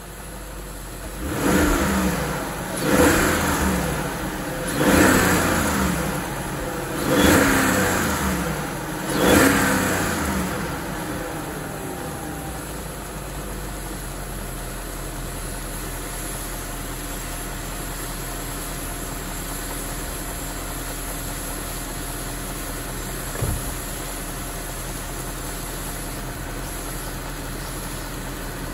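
BMW 740i E38 4.4-litre V8 blipped five times, each rev rising and dropping back, about two seconds apart. It then settles to a steady idle, with one short click a little past the middle.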